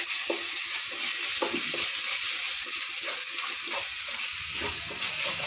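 Onion-tomato masala with freshly added ground spices sizzling in oil in a frying pan, with a steady hiss. A wooden spatula stirs and scrapes it in irregular strokes, about one a second.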